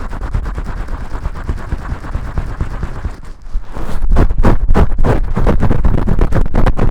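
Vigorous shampoo scrubbing: fast, dense scratchy rubbing strokes that ease off briefly about three seconds in, then come back louder.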